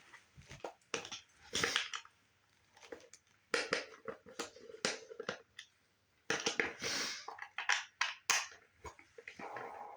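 Skate tool and Phillips screwdriver working the nuts and bolts of a skateboard truck loose: irregular metal clicks, scrapes and rattles in several bursts with short pauses between.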